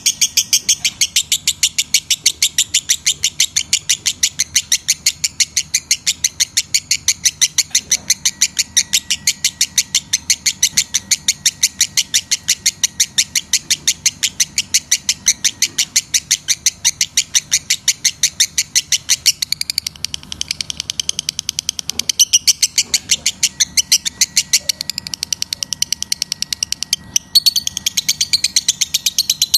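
Lovebird chattering in breeding condition: a fast, even stream of shrill chirps, about five a second, with a brief break about 27 seconds in.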